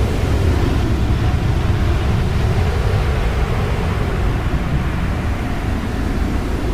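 Passing jet airliner's engines, a loud low rumble that slowly fades as the higher hiss thins out.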